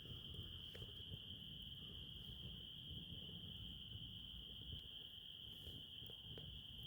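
Crickets trilling in one steady, unbroken high note, faint, with a few soft crackles from a wood fire scattered through it.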